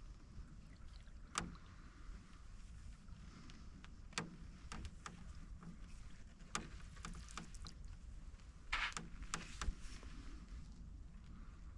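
Canoe paddling on calm water: paddle dips and drips, with scattered sharp clicks and knocks from the paddle and the creaky canoe. The loudest sound is a short splashy burst about nine seconds in.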